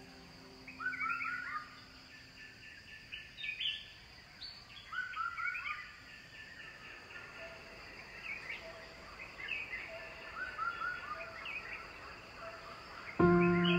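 Birds chirping in several short bursts of quick, repeated notes over a faint outdoor background. Music comes back in abruptly near the end.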